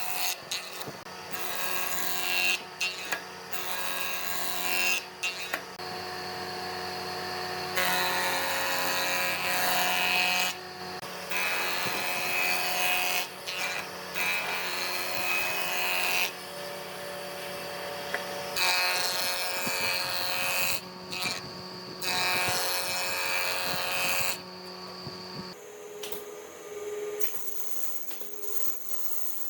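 Power tools running on wood, a motor hum under cutting and sanding noise, changing abruptly every few seconds as one short clip follows another.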